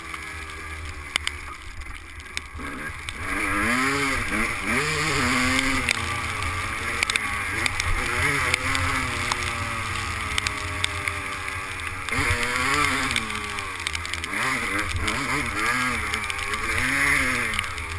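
Two-stroke 250 motocross bike engine being ridden, revving up and dropping back over and over as the rider works the throttle through the gears.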